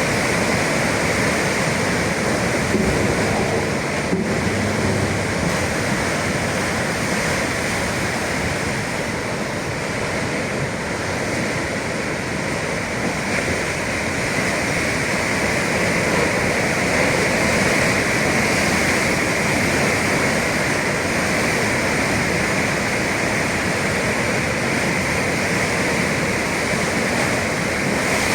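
Sea waves breaking and washing, a steady continuous rush of surf with no single breaker standing out.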